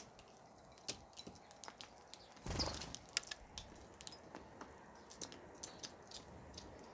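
Birds pecking at food: a run of sharp, irregular clicks, with a brief louder rustling burst about two and a half seconds in.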